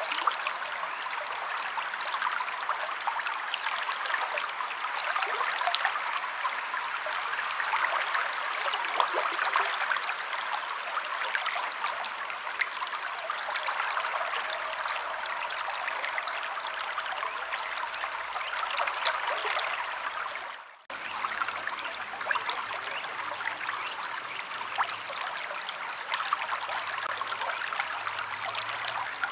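Steady rushing and trickling of a river flowing over rocks, with faint high bird chirps now and then. The water sound dips out briefly and returns about two-thirds of the way through.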